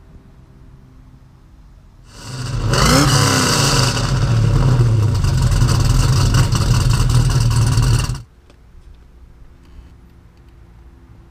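Custom 1969 Camaro's LS3 V8 firing up about two seconds in with a short rev flare, then running loud through its dual exhaust. It cuts off suddenly about eight seconds in.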